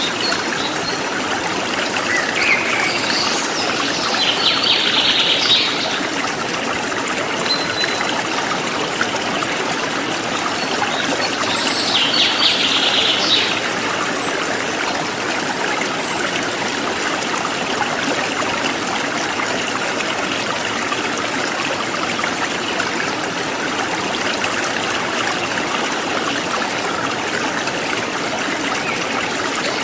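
Forest stream trickling and gurgling steadily over stones, with small birds chirping twice, a few seconds in and again about halfway through.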